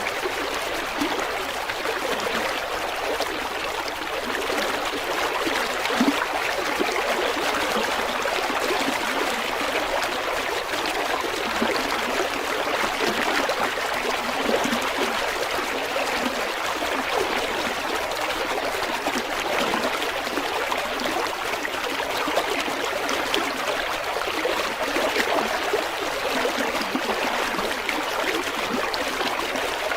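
River water running and babbling over stones, a steady rushing and trickling without pause.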